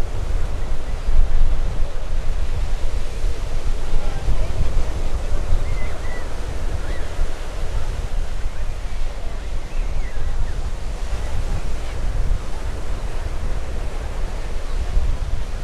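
Wind buffeting the microphone in a steady, gusty low rumble, with faint voices of people nearby underneath.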